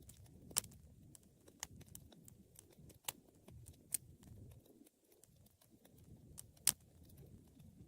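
Wood fire crackling: irregular sharp pops and snaps, the loudest near the end, over a soft low rush of the flames.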